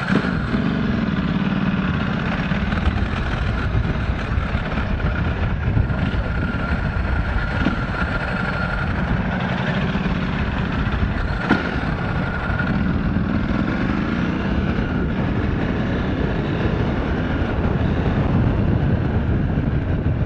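Motorcycle engine running under way, its note slowly rising and falling with the throttle, heard through a helmet camera's microphone with steady wind and road noise. A single sharp click about halfway through.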